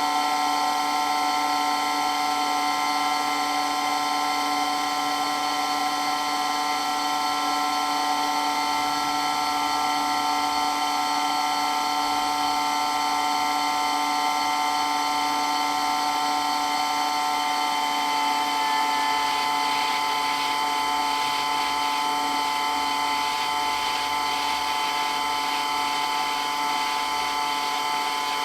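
Electric water pump for a water blaster running continuously, a steady whine made of several held tones over a hiss.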